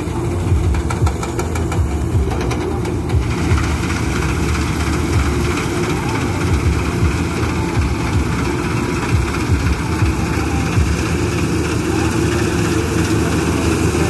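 Diesel engine of New Holland farm machinery running steadily, with a rapid clatter for the first three seconds and a steadier hiss after.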